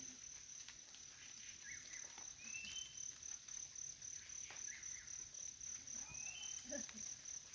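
Faint outdoor ambience: a steady, high-pitched insect trill, with a short rising chirp twice, a few seconds apart. Faint voices come in near the end.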